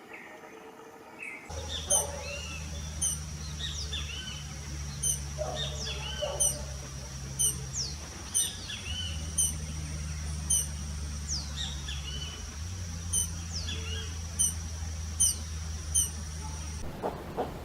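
Forest birds calling: short, sharp high chirps about once a second and repeated whistles that sweep down in pitch, over a steady high whine and a low hum. The recording changes abruptly about a second and a half in, after a few faint chirps.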